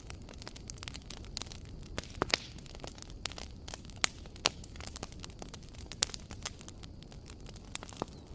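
Fireplace fire crackling, with irregular sharp pops and snaps over a low steady rumble. A few louder pops come about two, four and six seconds in.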